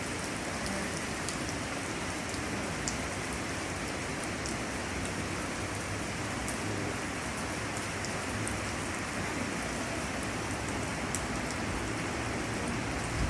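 Heavy thunderstorm rain falling steadily: an even hiss, with scattered faint ticks.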